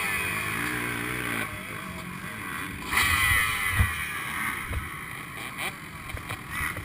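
Motocross bike engine revving in two bursts, one at the start and another about three seconds in, with its pitch sliding between them.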